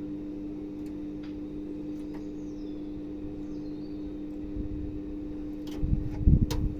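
A steady electrical hum. About a second before the end, a louder, gusty low rumble of wind on the microphone sets in.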